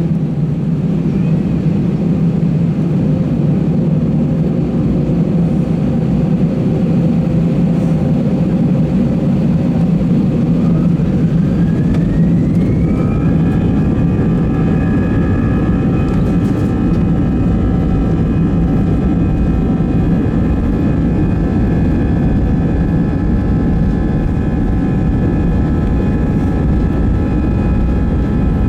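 Airbus A320 jet engines heard from inside the cabin during takeoff, over a steady heavy rumble. About ten seconds in, a whine rises as the engines spool up to takeoff thrust, then holds as several steady high tones.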